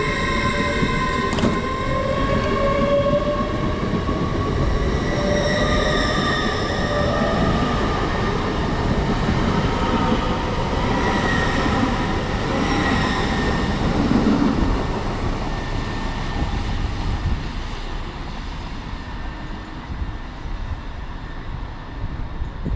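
A train running through the station, with a steady rumble and several high ringing tones that drift slightly in pitch, fading away over the last few seconds.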